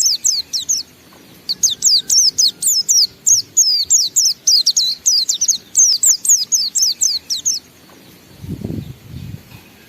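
White-eye (pleci) singing its long, rapid ngalas song: fast runs of high, sharply falling notes. A short break comes about a second in, then a long unbroken run stops about three-quarters of the way through. A low rumbling noise follows near the end.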